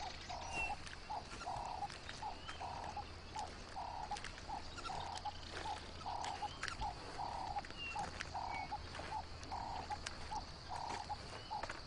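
Wild animal calls in a fast, even rhythm, about two or three a second, alternating longer and shorter notes, frog-like. A steady high insect hum and a few faint higher chirps run under them.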